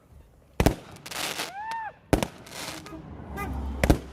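Firecrackers going off: three sharp bangs about a second and a half apart, the first followed by a short hiss.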